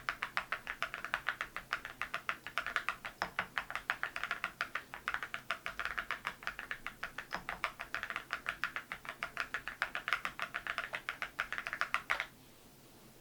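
Continuous fast typing on a mechanical keyboard (MZ Y3) fitted with Cerakey ceramic keycaps: a dense run of crisp clicks that stops abruptly near the end.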